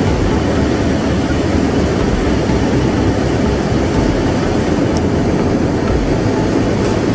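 Steady, loud rushing drone of a jet airliner cabin at cruise altitude, the engines and airflow heard from inside the passenger cabin, with a faint tick about five seconds in.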